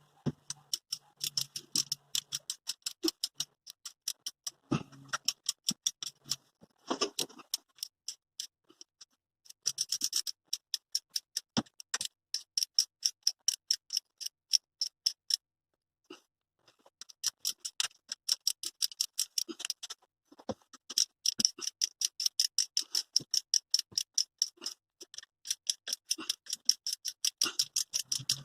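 Socket ratchet wrench clicking in quick, even runs of several seconds with short pauses between them, as bolts are wound in or out.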